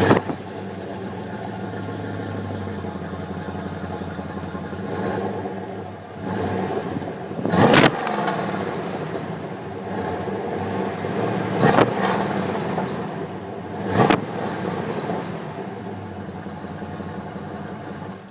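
A 2000 Dodge Durango's engine and exhaust idling just after starting, with the throttle blipped several times: a swell about six seconds in, then short sharp revs near eight, twelve and fourteen seconds. The sound cuts off suddenly at the end.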